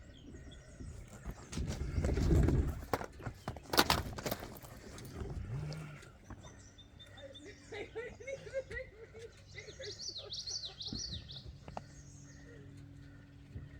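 Handling noise with rustling and a few sharp knocks in the first four seconds, the loudest part, then small birds chirping in quick runs of high notes through the second half.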